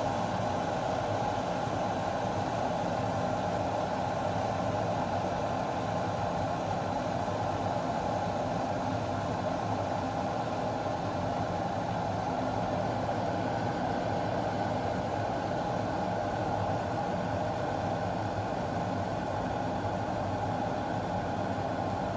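Glass electric kettle heating water: a steady rushing, rumbling noise that holds evenly.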